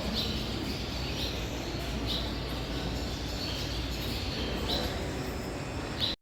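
Barn swallows calling: short high chirps repeated about once a second, over a steady low hum.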